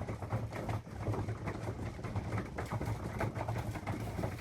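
Racing pigeons cooing, with scattered light taps and clicks.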